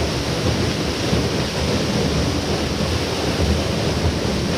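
Steady rush of fast-flowing water from the waterfall and its beck, an even noise heaviest in the low range.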